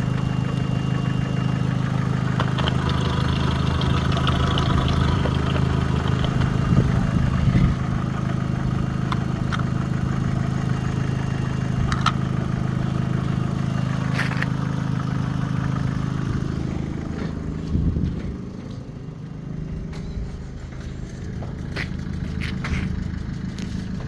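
Opel Astra H's 1.8-litre Z18XE four-cylinder petrol engine idling steadily on a test run, with a few sharp clicks. About eighteen seconds in, the engine note drops and grows quieter.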